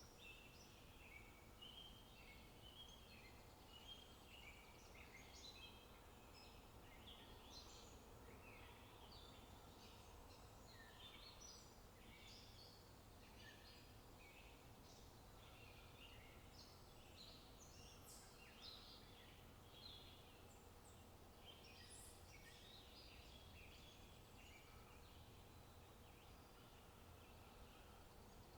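Faint birdsong: many small birds chirping and twittering in quick short notes, over a low steady rumble of wind.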